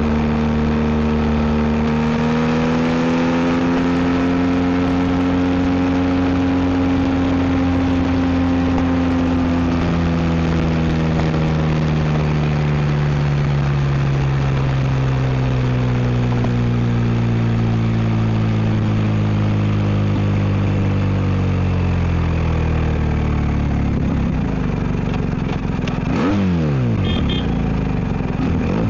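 BMW R1250 GS boxer-twin engine running through an Akrapovic exhaust while riding: a steady note for several seconds, then revs falling slowly as the bike eases off, and a few quick drops and rises in revs near the end.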